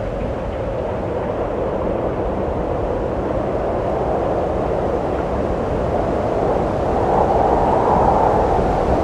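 Wind blowing steadily, a rushing noise with a low rumble beneath, that swells a little louder and higher about seven seconds in.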